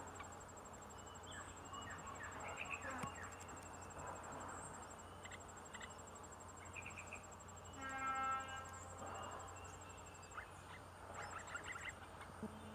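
Steady, high, finely pulsed insect trilling, like crickets, with scattered short chirps. About eight seconds in, a single louder buzzy call lasting about half a second stands out.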